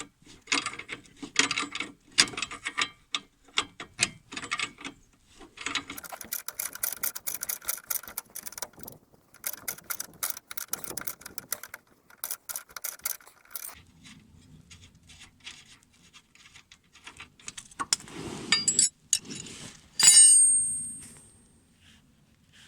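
Ratchet wrench clicking in rapid runs as it turns the nut off a stabilizer link while the link's stud is held with a hex key. Near the end comes a loud metal clank with a brief ring.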